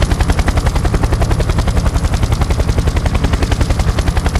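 Recorded helicopter sound effect: a steady, rapid rotor chop with even beats.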